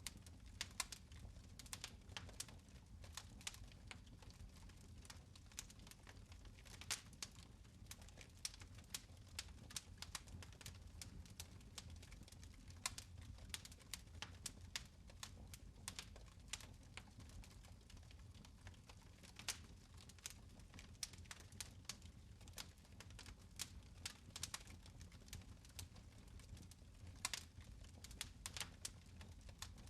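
Fire crackling in a fireplace: faint, irregular pops and snaps over a steady low rumble.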